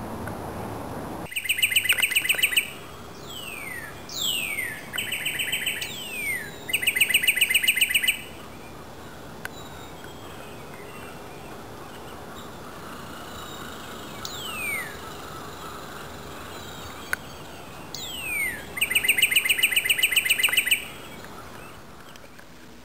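A songbird singing: phrases of steep down-slurred whistles alternating with loud, fast trills of repeated notes, in one bout from about a second and a half in to about 8 s and another from about 14 s to 21 s.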